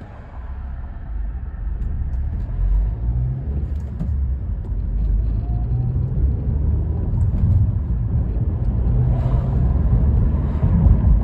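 Inside the cabin of a 2014 Honda Accord Sport with a manual gearbox, the 2.4-litre four-cylinder engine and the road rumble as the car pulls away and accelerates, growing louder about a second in.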